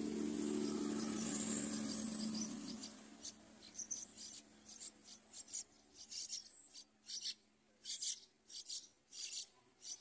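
Yellow-vented bulbul nestlings begging to be fed: short, very high-pitched calls repeated about twice a second, starting a few seconds in. Before them a low droning hum fades away over the first three seconds.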